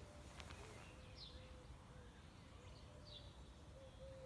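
Near silence with faint bird chirps: a few short, falling chirps.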